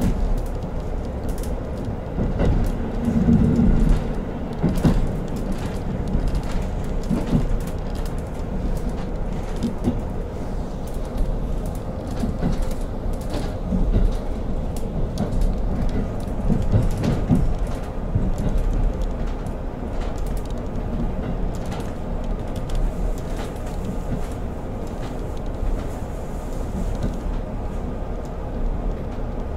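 KiHa 40 diesel railcar running on the line, heard from inside the car: a steady rumble of wheels on rails with scattered clicks and knocks.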